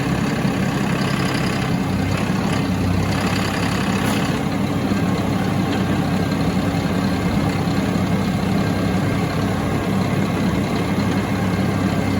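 A heavy vehicle engine running steadily at an even speed, with no change in pitch.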